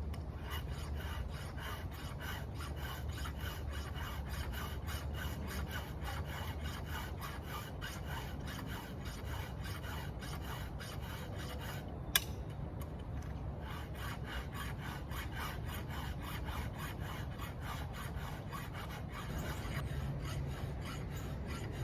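Hand file rasping across the cutters of a Husqvarna chainsaw's chain in quick, even strokes, sharpening a dull chain that had been making fine sawdust rather than chips. A single sharp click about halfway through.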